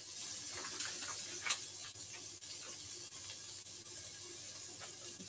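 Red onions sizzling in oil in a frying pan: a steady hiss with a few faint clicks and crackles.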